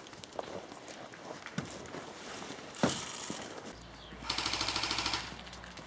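Airsoft gunfire: a single sharp crack near the middle, then a burst of rapid full-auto fire about a second long, roughly fifteen shots a second, a little past halfway.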